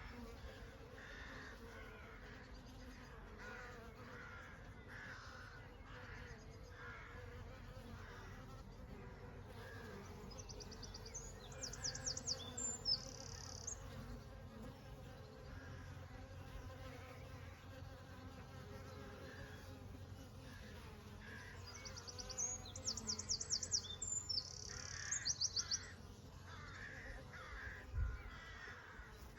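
Honey bees buzzing in a steady hum. Two short bouts of high, rapid bird calls cut in, once near the middle and again, longer, near the end.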